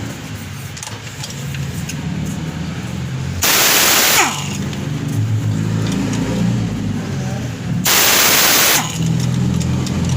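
A steady low motor hum, with two loud bursts of hissing about four seconds apart, each lasting just under a second. A faint falling whine trails the first burst.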